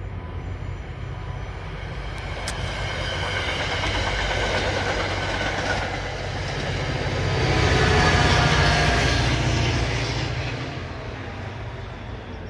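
Diesel-hauled commuter train passing along the tracks, a low engine rumble under the rolling noise of the wheels and coaches. It builds to its loudest about eight seconds in, then fades as the train moves away.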